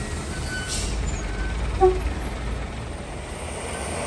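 Heavy diesel truck engine running low and steady, with a short hiss of air a little under a second in and a brief, sharp pitched blip near two seconds, the loudest moment.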